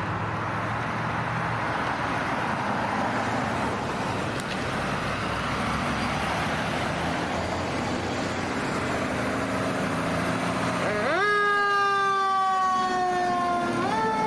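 Steady traffic and engine noise from the passing apparatus, then about eleven seconds in an electronic emergency-vehicle siren starts. It rises quickly, falls slowly in a wail and rises again near the end.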